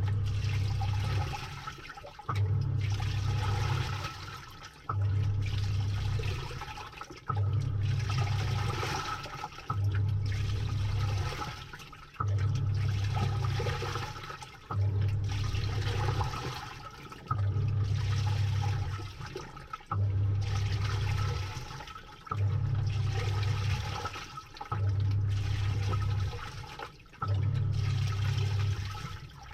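Samsung top-load washing machine agitating a load in water, heard from inside the drum: the pulsator motor hums in strokes of about a second and a half, one roughly every two and a half seconds, with water swishing throughout.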